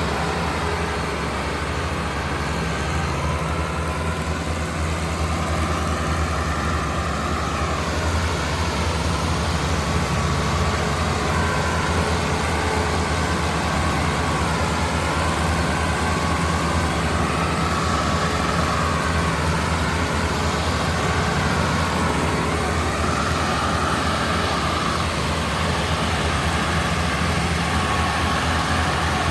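Tractor diesel engines running steadily, with a slight rise and fall in their pitch.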